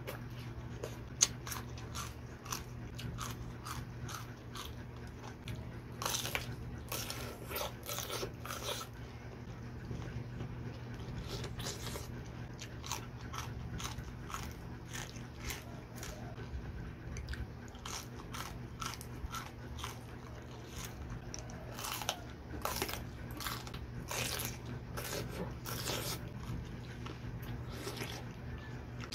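Close-up crunching and chewing of raw vegetables, okra pods among them: many crisp bites and crunches, thickest in two stretches, over a steady low hum.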